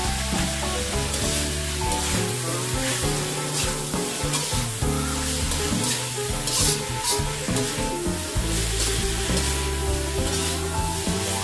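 Sliced carrots sizzling in hot oil in a metal wok, stirred and tossed with a slotted metal spatula that scrapes and clinks against the pan again and again. Background music plays underneath.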